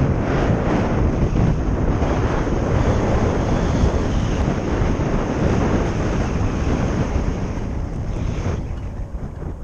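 Wind rushing over the microphone of a moving electric motorcycle, a loud steady roar that eases off sharply near the end as the bike slows.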